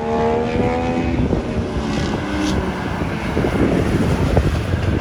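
A car engine pulling past, its pitch rising slightly over the first second or so and fading, giving way to a steady rush of road and traffic noise.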